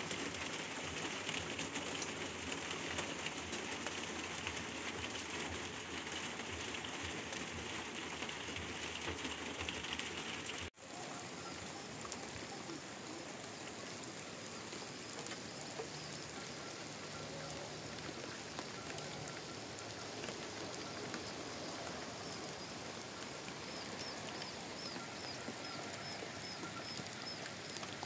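Steady rain falling, with a brief drop-out about ten seconds in. Near the end a bird chirps a quick run of short high notes over the rain.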